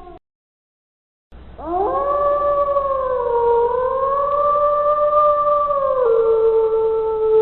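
Wolf howling: the tail of one howl fades out, then after a second of silence a new long howl rises sharply. It is held with a slight waver and drops a step in pitch near the end.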